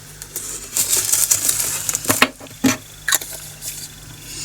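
Small resin diamond-painting drills rattling as they are poured and tipped into a plastic storage container, followed by a few sharp plastic clicks as the container is handled.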